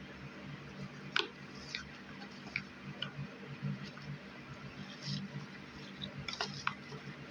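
Scattered small clicks and taps of items being handled and set into an Easter basket, at irregular moments, over a low steady hum.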